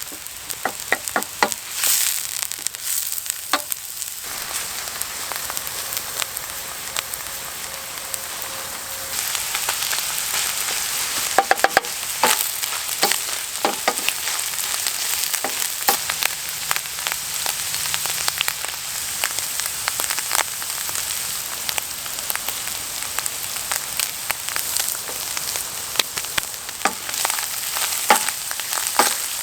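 Food frying in hot oil in a pan: a steady sizzle with frequent crackles and pops, a little louder from about a third of the way through.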